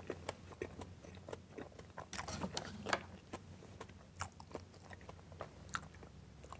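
Faint, close-miked chewing of a mouthful of food with the lips closed: soft wet clicks and smacks at an uneven pace, bunching up about two to three seconds in, over a low steady hum.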